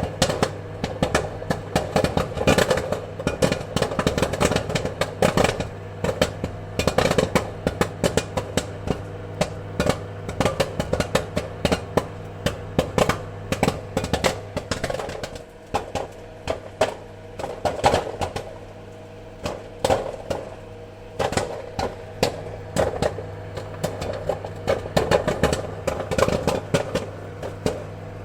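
Popcorn popping: many irregular sharp pops, some in quick clusters, over a steady low hum. The popping thins out for a few seconds past the middle, then picks up again.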